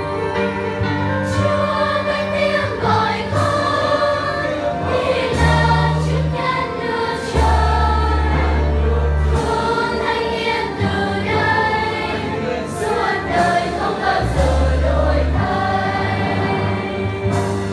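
A children's choir singing a Christian hymn in Vietnamese, with instrumental accompaniment that holds low bass notes under the voices.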